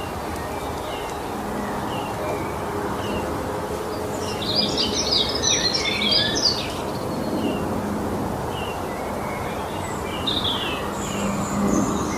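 Songbirds singing in a forest: a short chirp repeated about once a second, with a loud burst of rapid twittering song about halfway through and more song near the end, over a steady background hiss.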